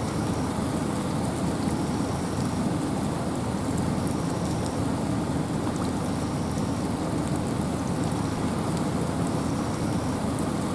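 Steady rain and wind in a forest: an even, unbroken rushing hiss with its weight low down, and scattered faint ticks of drops.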